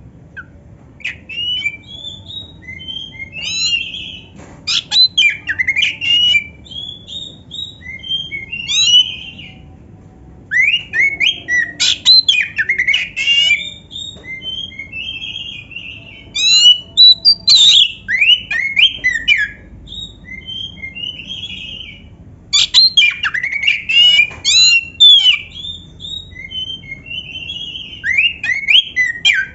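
Oriental magpie-robin (kacer) singing a fast, varied song of whistles, chirps and trills, with canary-like phrases worked into it. It comes in bouts of a few seconds separated by short pauses.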